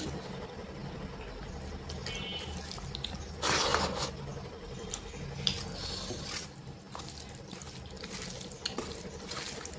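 Wet eating sounds of rice and dal chawal being mixed and eaten: sticky squelches, small smacking clicks, and a louder wet burst about three and a half seconds in.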